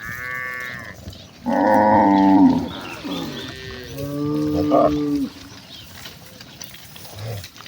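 Cattle mooing in turn: three long moos in the first five seconds, the first one higher-pitched, then quieter.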